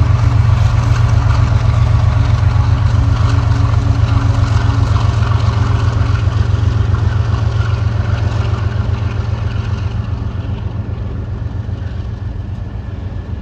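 Loaded ethanol unit train running past: a steady low rumble with a fast, even pulsing beat and a low hum, fading gradually over the last several seconds as it moves away.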